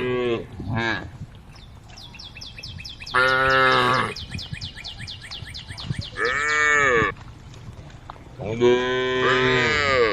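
Cows mooing, calling to the herd: long, low, drawn-out moos about every three seconds, one ending just after the start and others around three, six and nine seconds in. A fast, high chirping runs in the background between the calls.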